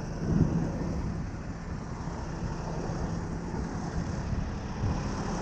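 A large diesel truck engine running steadily at idle, with a brief louder surge about half a second in.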